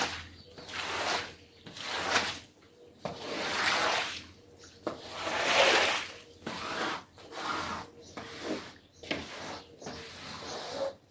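Rasping scrubbing strokes across a carpet's pile, about one a second and irregular in length, the longest and loudest about halfway through.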